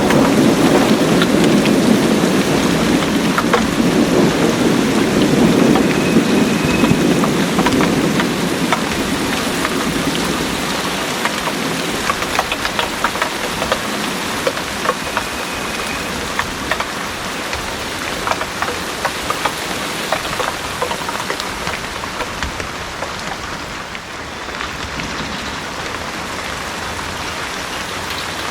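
Heavy rain pouring steadily, with a low rumble of thunder that dies away over the first several seconds. After that the rain continues alone, with separate drops dripping close by.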